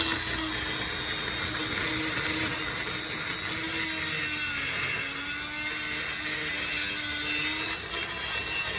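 A workshop machine running with a steady hum that sags in pitch for a moment about halfway through, over a constant high hiss.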